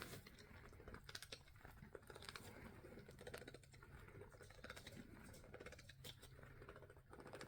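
Near silence: room tone, with a few faint soft ticks and rustles.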